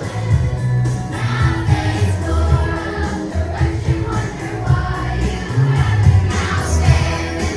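A group of fifth-grade children singing together as a choir over musical accompaniment with a strong bass line.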